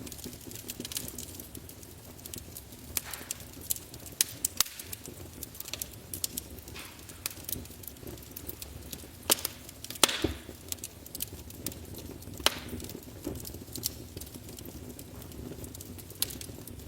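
Fire burning in a fireplace, crackling with irregular sharp pops over a low steady rustle; the loudest pops come about ten and twelve and a half seconds in.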